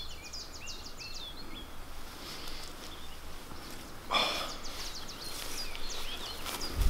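Small birds chirping over a faint outdoor hush: many short, quick calls, each sweeping sharply in pitch. About four seconds in, a person takes a short, sharp breath.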